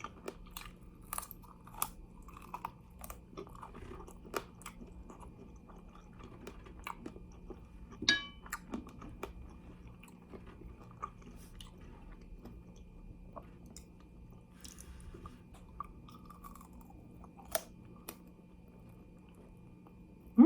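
Close-up chewing and crunching of fried chicken wings, bones included: irregular crisp crunches and mouth clicks. A short ringing sound comes about eight seconds in.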